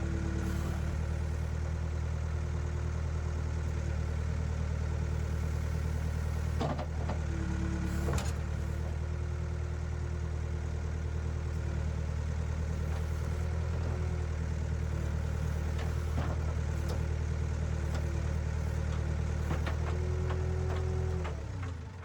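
Backhoe engine running steadily under work, with a whining tone that shifts a little in pitch and a few sharp clanks along the way. The engine winds down and stops near the end.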